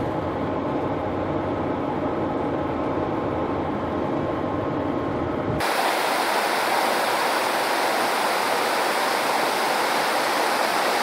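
Steady engine and road noise from a van on the move. About five and a half seconds in it cuts abruptly to a brighter, even rushing hiss.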